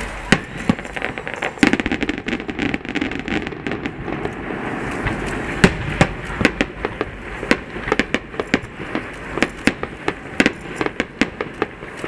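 Aerial firework shells bursting, a rapid string of sharp bangs and crackling over a steady rumble. A dense run of bangs comes about two seconds in, the loudest single bang falls near the middle, and the bangs then keep coming every fraction of a second.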